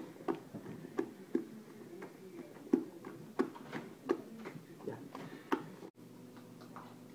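Tamale masa being beaten by hand in a stainless steel bowl: wet slaps and knocks of hand and dough against the bowl, irregular, roughly one or two a second. They stop abruptly about six seconds in, and a low steady hum follows.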